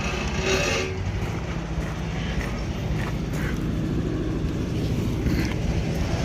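Engine running steadily at a low, even pitch, with a few faint knocks of metal.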